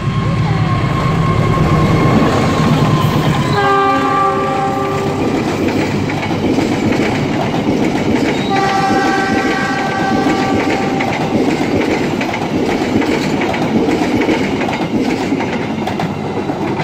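Diesel-hauled passenger train passing close by. The locomotive's engine throbs as it comes up. The horn sounds twice, briefly at about three and a half seconds and longer at about eight and a half seconds. The coaches' wheels then clatter steadily over the rails.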